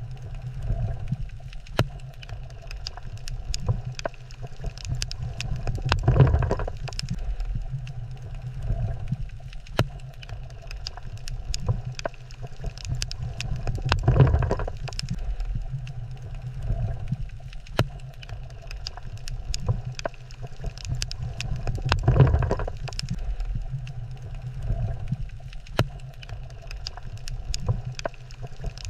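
Underwater ambience on a coral reef: a steady low rumble scattered with sharp clicks, swelling louder about every eight seconds.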